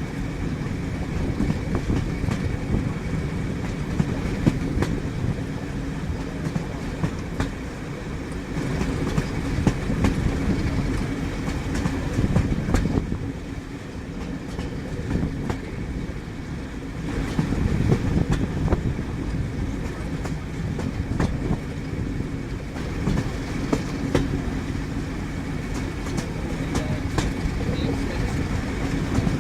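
A train running along the track: a steady low rumble with irregular clicks of the wheels passing over rail joints.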